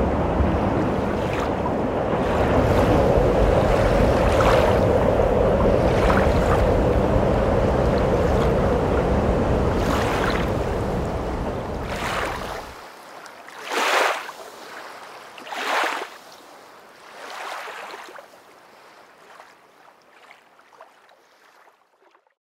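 Wind buffeting an outdoor camera microphone: a loud, rough rumbling rush that cuts off suddenly about two-thirds of the way in. It is followed by three fainter rushing whooshes, each rising and falling, that fade away toward the end.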